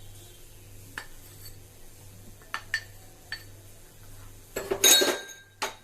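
Kitchen dishes and utensils clinking while marinade ingredients are added to the chicken wings: a few light taps, then a louder clatter about five seconds in.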